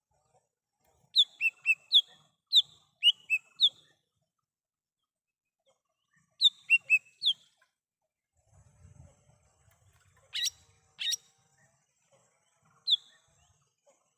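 Cucak hijau mini (a small leafbird) singing in the wild: quick phrases of short, sharp, down-slurred whistled notes, a run of about eight notes, then four more a few seconds later, and a single note near the end. Two sharp clicks sound about ten and eleven seconds in.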